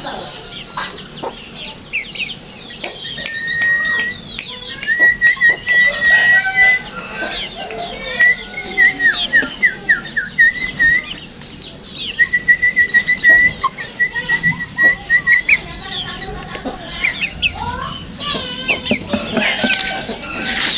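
Sooty-headed bulbul calling in two long bouts of rapid, chattering trills, with a run of short falling notes between them.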